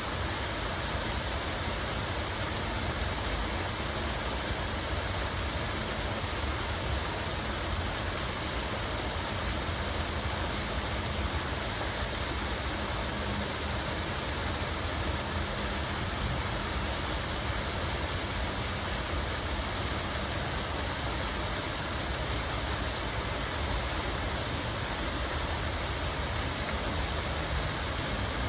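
Water flowing steadily, an even rushing hiss with a low rumble underneath.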